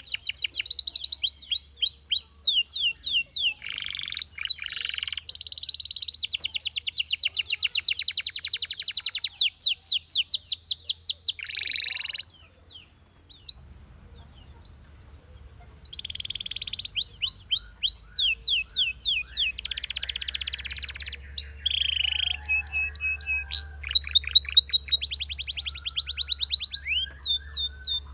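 Belgian canary singing: long fast trills and rolls of rapidly repeated sweeping notes, with a pause of a few seconds about halfway through before the song starts again.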